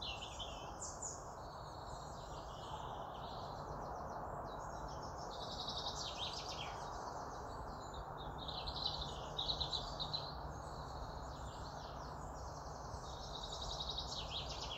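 Several small birds chirping and trilling over a steady background hiss.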